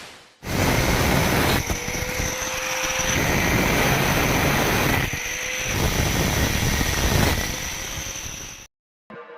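Power tool cutting or grinding iron: a loud, harsh noise with a steady high whine that starts suddenly, dips briefly a couple of times, and cuts off abruptly near the end.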